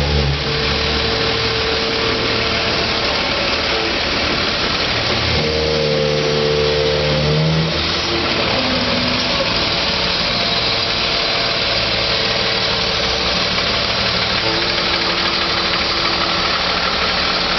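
Recycling truck engine running steadily, with a rise in engine speed for a couple of seconds about six seconds in.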